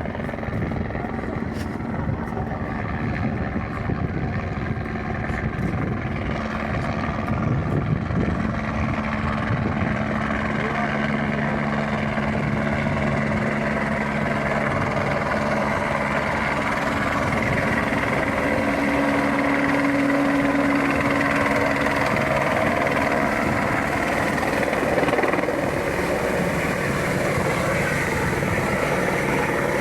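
Helicopter running steadily, its rotor and turbine making a continuous noise; about ten seconds in, a steady low hum comes in over it.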